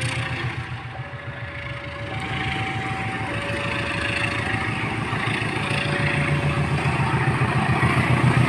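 Level crossing warning alarm sounding a two-tone signal, a lower and a higher tone taking turns about once a second, which means a train is approaching. Under it, a low engine rumble grows steadily louder.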